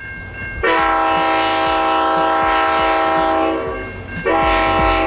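Multi-chime air horn on a diesel locomotive, likely the five-chime Leslie RS5T fitted to X31, sounding two long blasts over the low rumble of the train. The first blast lasts about three seconds; the second begins about four seconds in.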